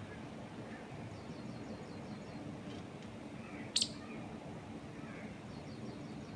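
Wild birds chirping: one sharp, high chirp about four seconds in, with faint rapid trills and soft calls in the background over a steady low background noise.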